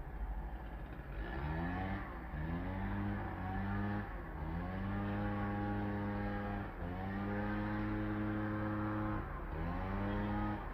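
A motor vehicle's engine accelerating through the gears. The pitch climbs and levels off, then drops and climbs again at each of about four gear changes.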